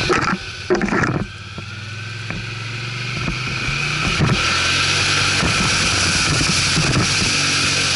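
ATV engine running under load with wind noise on the microphone. A few knocks come in the first second, then the engine note dips and builds steadily over the next few seconds as it speeds up, and holds there.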